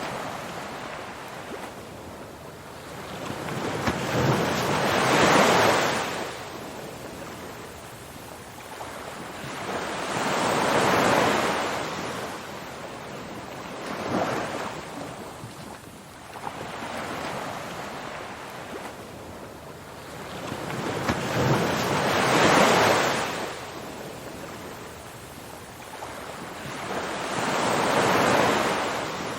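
Ocean surf, waves washing in and drawing back in a slow rhythm. Each wave swells to a hissing peak and fades away every five or six seconds.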